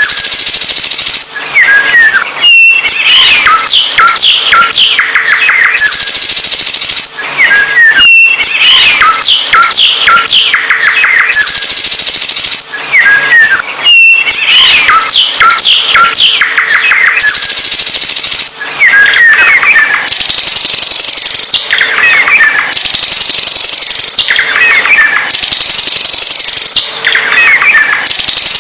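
A songbird singing loudly and continuously: rapid chattering phrases of chirps and whistled notes, repeated over and over with brief pauses between phrases.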